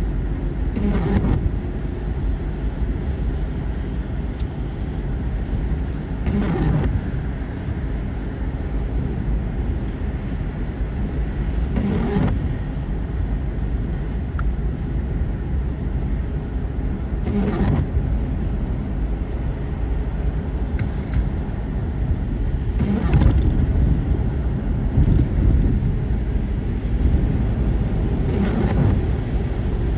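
Road noise inside a moving vehicle's cabin, a steady low rumble. Windshield wipers make a sweep about every five and a half seconds, six times.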